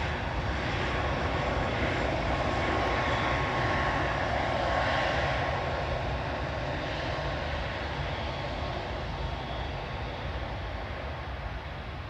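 Airbus A380 jet engines: a steady roar that swells to its loudest about four to five seconds in, then slowly fades as the airliner moves away.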